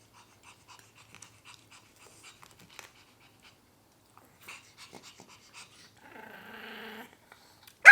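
Faint scattered small clicks, then a dog gives a drawn-out, buzzy whine for about a second; a sharp knock comes right at the end.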